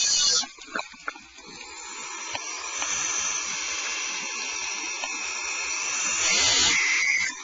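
Barn owl nestlings hissing: the rasping food-begging call. A short hiss comes at the start, then one long hiss grows louder over several seconds and stops abruptly near the end.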